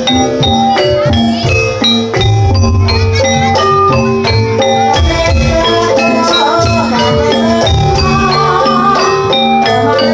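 Javanese gamelan music for a jaranan horse-trance dance: struck metallophones ring out a busy melody over drum strokes, with a wavering higher melody line coming in about six seconds in.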